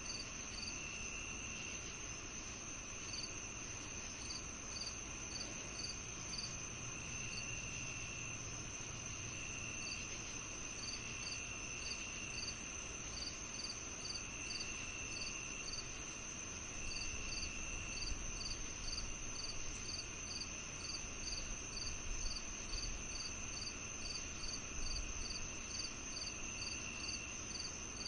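Crickets and other insects calling together: a steady high trill, regular short chirps about two to three a second, and a lower trill that starts and stops every few seconds, over a faint low rumble.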